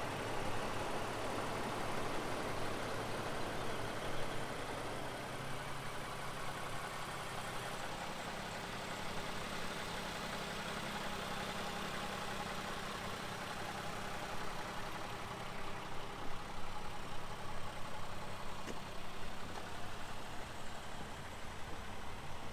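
A 2020 Toyota Sienna's 3.5-litre V6 idling steadily, a low even hum.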